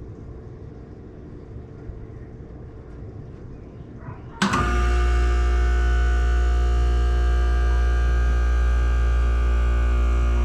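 Outdoor heat pump unit running with a steady hum; about four seconds in a much louder, steady humming drone cuts in suddenly.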